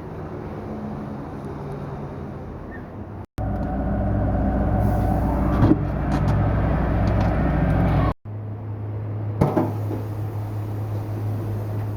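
A steady low mechanical hum, heard in three stretches with two sudden cuts between them. The middle stretch is louder and carries a few sharp clicks and knocks.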